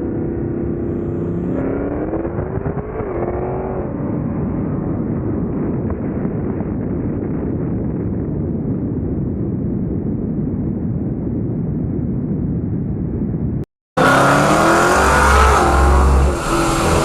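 A car engine accelerating hard, its pitch climbing through the gears. After the climb comes a steady, dull rumble of speed. Near the end it cuts out abruptly, then returns louder and clearer with another rising run.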